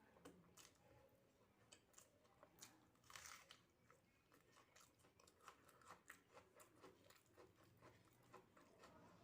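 A person chewing soft food (rice, dal, mashed potato and omelet), faint, with irregular wet mouth clicks and smacks and a short louder rustle about three seconds in.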